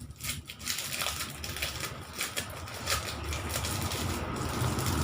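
Plastic packaging crinkling and rustling in irregular crackles as it is handled and opened. A low rumble builds underneath toward the end.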